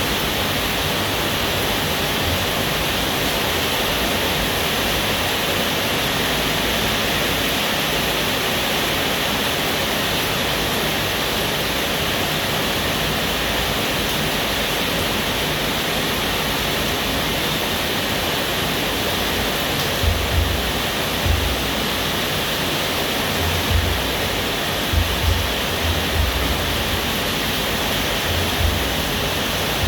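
Steady rain falling, an even rushing hiss. In the second half, a string of short low thuds sounds through it.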